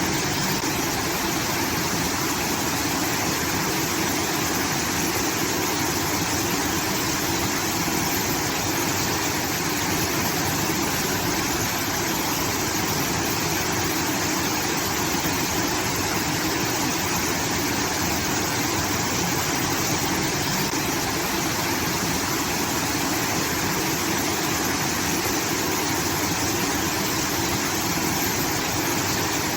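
Water pouring steadily through a rice-field irrigation outlet, a constant rushing like a small waterfall.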